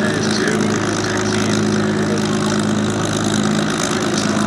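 Piston aero engine idling steadily at low power, an even, unchanging hum with a constant pitch.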